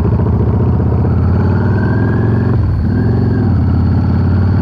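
Yamaha V-Star 650's V-twin engine running under way, its pitch climbing, then dropping suddenly about two and a half seconds in before building again and holding steady.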